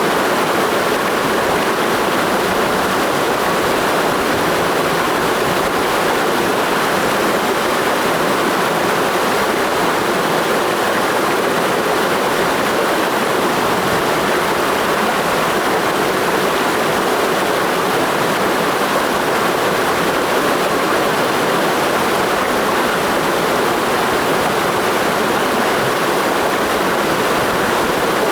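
Mountain stream rushing steadily over rocks, a dense even wash of flowing water with no change in level.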